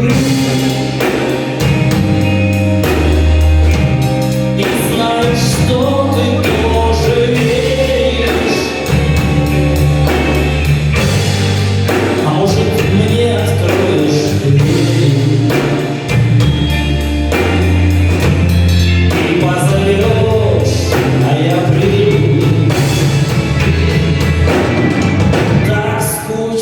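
Live rock band music: bass guitar notes changing every second or so under regular drum hits, with a melody line on top.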